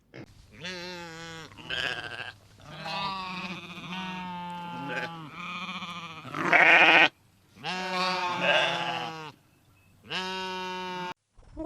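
Sheep bleating: a series of about six wavering bleats with short gaps between them, the loudest a little past the middle.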